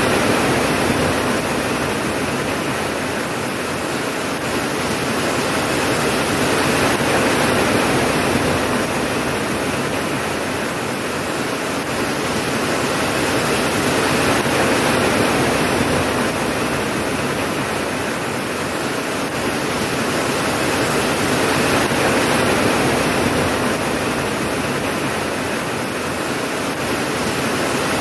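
Steady heavy rainfall, a dense hiss that swells and eases gently every several seconds.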